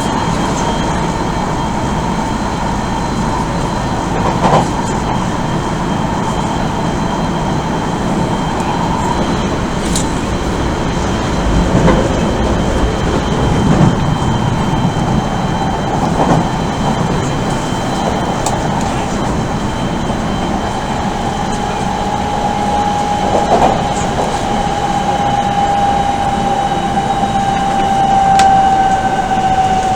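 Odakyu 1000 series electric train running at speed, heard inside the car: a steady rumble and a whine from the Mitsubishi GTO-VVVF inverter and traction motors that slowly drops in pitch in the second half. The wheels knock over rail joints several times.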